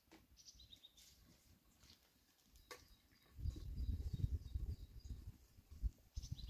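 Faint high bird chirps in short runs early on, then from about halfway a louder irregular low rumble.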